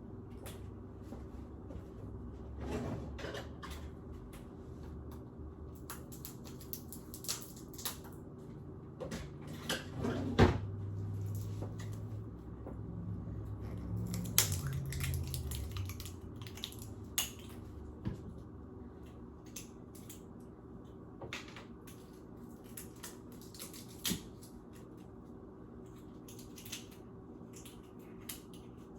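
Kitchen handling noises: scattered clicks, taps and knocks as a sauce bottle and dishes are handled, over a steady low hum. The loudest knock comes about ten seconds in.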